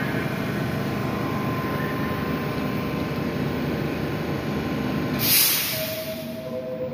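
Steady rumble of a train, with a sharp burst of air hissing about five seconds in, followed by a brief two-note falling tone.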